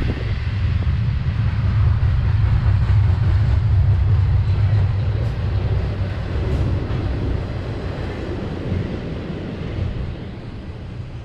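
Freight train of ethanol tank cars rolling past, a loud low rumble that fades over the last few seconds.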